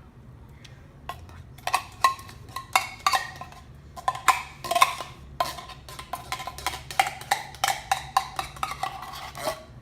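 A spoon knocking and scraping against a dish over and over as thick cream of chicken soup is spread and knocked off the spoon. The sharp clinks come about three or four a second, starting about a second in, some with a brief ring.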